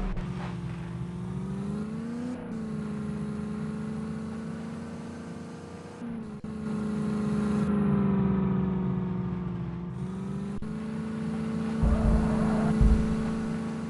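HMT tractor's diesel engine running, its pitch sagging and rising with the throttle. A couple of heavy low thumps come near the end.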